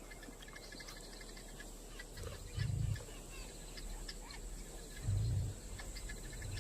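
Bush ambience of birds calling and insects chirping in rapid ticking runs over a steady high insect hiss. Two deep low booms of about half a second each come about two and a half and five seconds in, and they are the loudest sounds.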